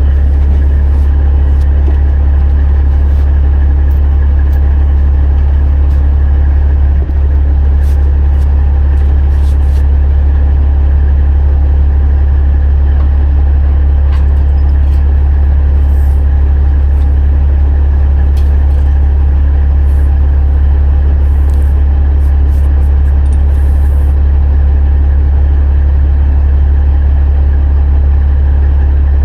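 Heavy diesel engine idling steadily: a loud, even low drone that does not change.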